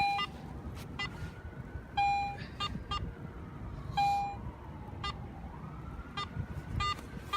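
Metal detector beeping on a buried target while the spot is pinpointed: a longer, lower beep about every two seconds, with short, higher beeps between. Wind rumbles on the microphone underneath.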